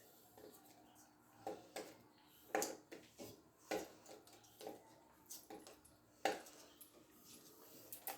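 Scattered sharp clicks and light knocks of small hard objects being handled, about eight of them at irregular intervals.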